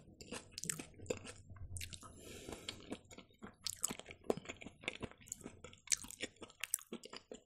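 Close-miked chewing of fried champignon mushrooms: many soft, wet mouth clicks and small squelches at an irregular pace.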